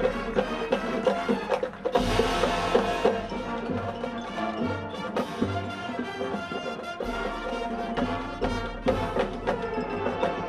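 Marching band playing its field show: brass and percussion in quick, busy rhythm, with a crash about two seconds in.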